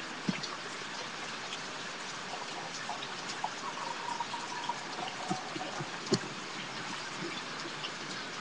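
Steady hiss of hurricane rain falling, with a few scattered small knocks; the sharpest comes about six seconds in.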